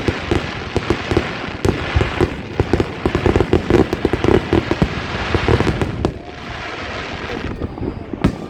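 Fireworks display: a dense run of rapid bangs and crackling that thins out about six seconds in, leaving a few scattered pops.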